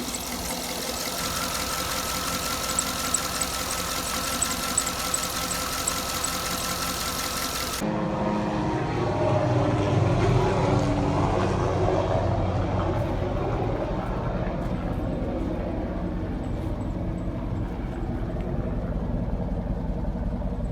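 2009 Cadillac Escalade's V8 idling while it warms up, with faint ticks through the first few seconds; the owner says the engine ticks every time it warms up. About eight seconds in, the sound changes abruptly to a deeper, duller engine sound.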